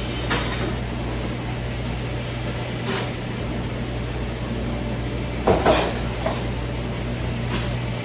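A steady low machine hum with a few scattered knocks and clatters, the loudest two close together about five and a half seconds in.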